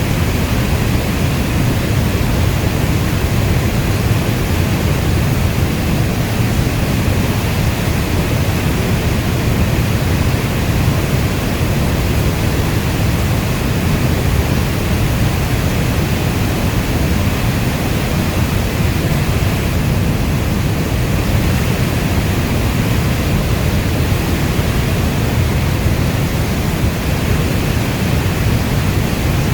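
Heavy rain falling as a dense, steady wash of noise, heaviest in the low end, with no separate drops, thunder or gusts standing out.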